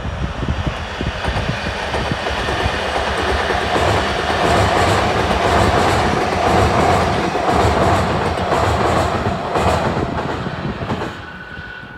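Tobu Series 100 Spacia electric limited express train passing at speed, its wheels clacking rhythmically over rail joints. It grows louder to a peak in the middle, with a steady whine, then fades away after about ten seconds as the train leaves.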